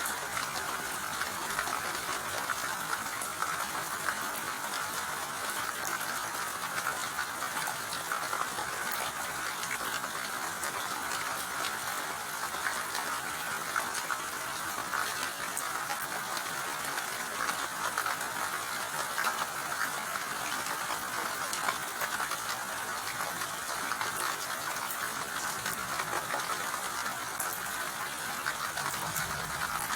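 Steady rain falling, a continuous hiss dense with the small ticks of individual drops.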